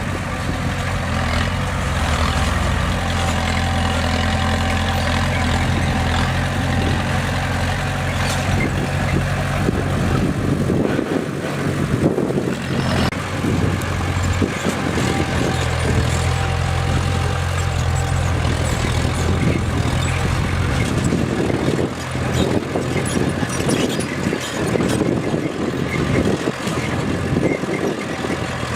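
Crawler bulldozer's diesel engine running steadily while working. Its low engine note drops away for a few seconds about eleven seconds in, then comes back.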